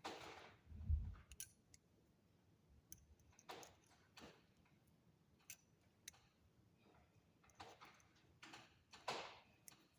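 Faint scattered clicks and short scrapes of copper wire and small hand tools being handled while a wire pendant is shaped, with one low thump about a second in.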